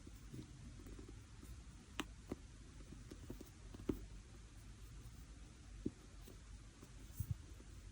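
Sand-texture slime being handled: quiet squishing, with a few soft clicks and pops scattered through it.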